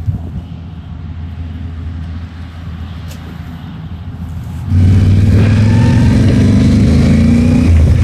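Yamaha Tenere 700's 689 cc parallel-twin engine running. It is low and quieter at first, then about five seconds in it turns suddenly much louder and holds a steady, strong note.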